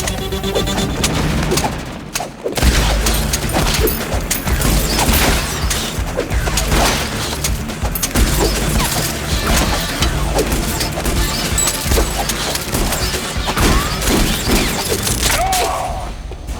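Action-film fight soundtrack: rapid, sustained gunfire and impacts over background music, with a short lull about two seconds in.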